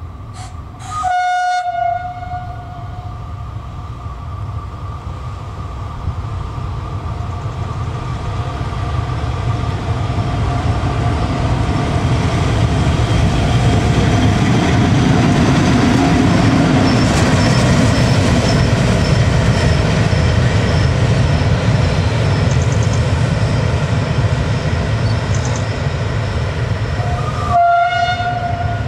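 Historic train hauled by a vintage FS rheostatic electric locomotive, its horn sounding a short blast about a second in and again near the end. Between the blasts the train's rumble grows steadily louder to a peak midway, then eases off.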